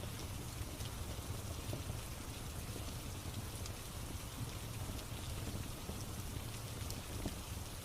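Steady rain with a few scattered crackles and pops from a wood fire.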